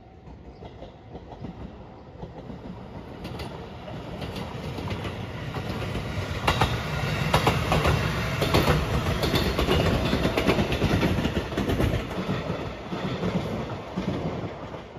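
Rapid Marine Liner electric multiple-unit train approaching and passing close by, its wheels clacking over rail joints in sharp clicks. It grows louder for the first half, is loudest in the middle, then fades away.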